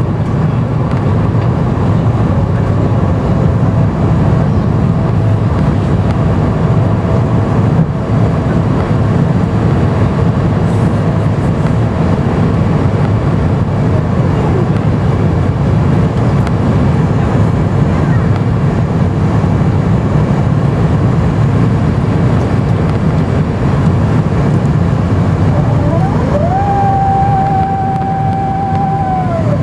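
Steady cabin noise inside an Airbus A350-900 in flight, the deep rush of its Rolls-Royce Trent XWB engines and airflow heard at the window seat. Near the end a mechanical whine rises, holds steady for a few seconds, then falls away.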